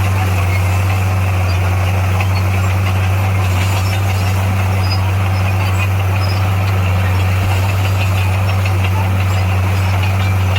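SDLG motor grader's diesel engine running steadily as a constant low drone that does not change in pitch.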